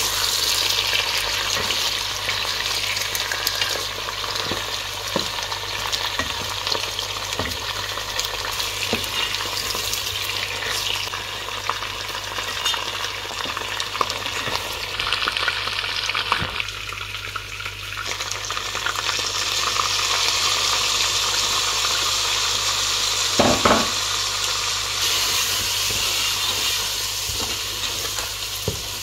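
Chicken pieces sizzling in hot oil with garlic and onion, stirred with a spatula that scrapes and knocks against the pan; one knock about three-quarters of the way through is louder than the rest.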